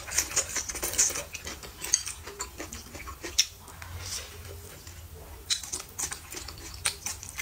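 Close-miked eating: irregular wet clicks and smacks of a person chewing food, with a few sharper ticks.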